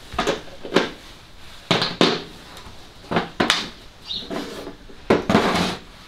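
Workshop tools and metal parts being handled: a series of short clanks and clatters, several in quick succession near the start and the middle, with a longer clatter near the end.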